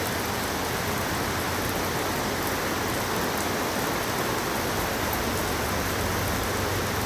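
Heavy thunderstorm rain falling and hitting surfaces, a steady, even hiss.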